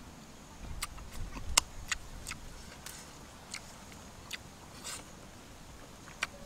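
Eating sounds from a person chewing grilled fish: a scattered series of short, sharp mouth smacks and clicks, about ten of them.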